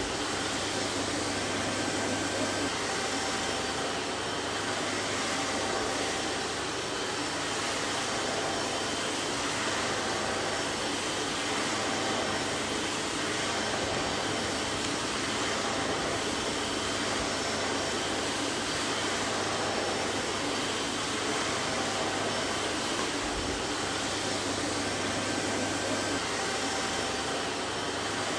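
Vacuum cleaner running steadily: an even, unbroken rushing noise with a faint motor whine and a low hum underneath.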